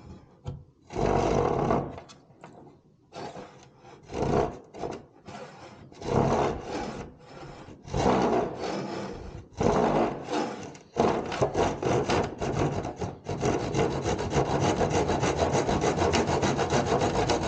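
Hand saw in a miter box cutting through a wooden arrow shaft: a few separate strokes at first, then, from about two-thirds of the way in, quick, even back-and-forth sawing.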